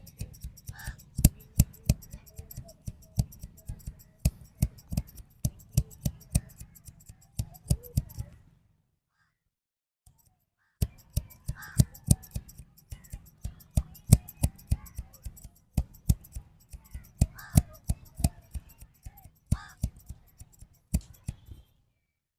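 Barber's scissors snipping hair, a quick run of crisp snips several times a second. They break off into silence for about two seconds near the middle, then carry on.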